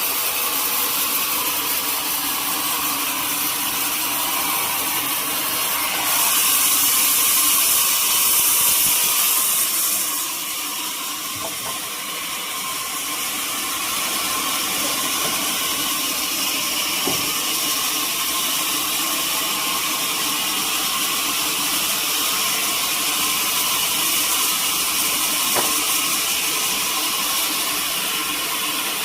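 Sawmill saw running and cutting through a teak log, a steady mechanical whine with a hiss. It gets louder and hissier from about 6 s to 10 s in.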